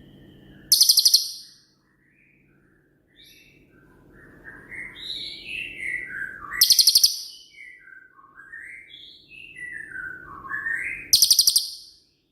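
Cililin (crested jay) singing: three loud, rapid rattling calls, about a second in, near the middle and near the end, with strings of falling whistled notes between them.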